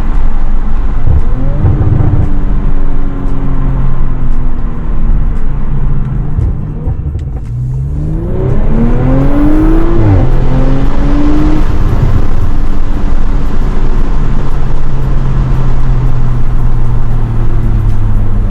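Audi RS5's 2.9-litre twin-turbo V6 with a resonator-delete exhaust, heard from inside the cabin while driving. The engine note rises under acceleration, most clearly about eight seconds in, falls back as it shifts or eases off, and settles into a steady drone for the last few seconds.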